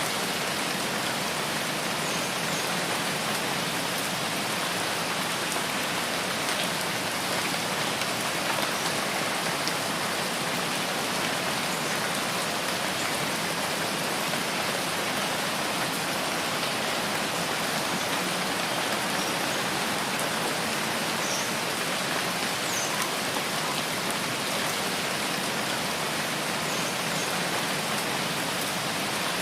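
Steady rain falling, an even, unbroken hiss that holds at one level throughout.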